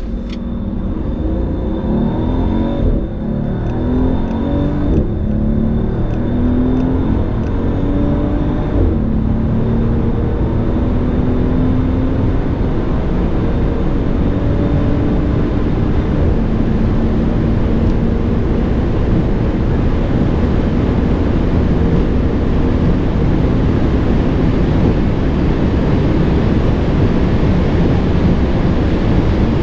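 Mercedes S65 AMG's twin-turbo V12 accelerating through the gears: its pitch climbs and drops back at each of three upshifts in the first nine seconds, then rises slowly and holds steady at high speed under a heavy rush of wind and tyre noise.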